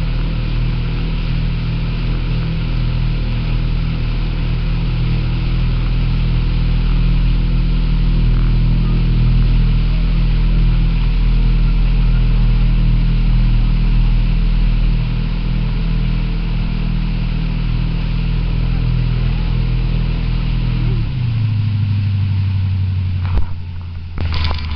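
Motorboat engine running steadily under way, with a constant noise of water and wind. About three-quarters of the way through the engine note drops as the boat throttles back to a slower, lower run, and a few sharp knocks come near the end.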